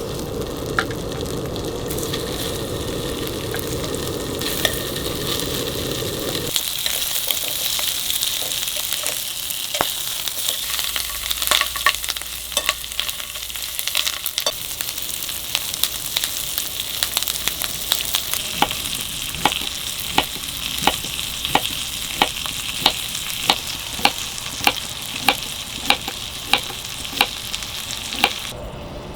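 Food sizzling in a hot pan, with scattered pops that become regular, about two a second, near the end. For the first six seconds a low rushing noise is heard instead.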